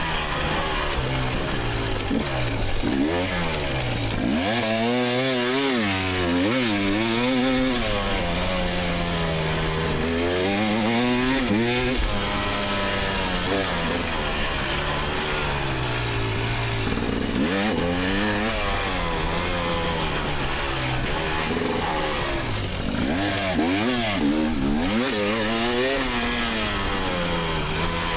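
2024 GasGas EX300 two-stroke dirt bike engine under hard riding, its pitch rising and falling again and again as the throttle is opened and shut through the trail's sections.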